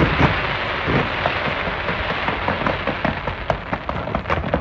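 Fireworks going off in a dense, continuous crackle of many small pops, like crackling-effect shells, with low booms underneath.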